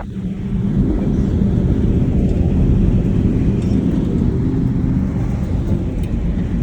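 Vehicle engine and tyre rumble on a road: a steady, loud low drone that grows louder about half a second in.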